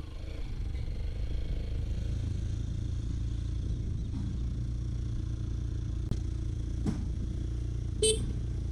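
Steady low rumble of a scooter being ridden, with three short knocks in the second half, the last one the loudest.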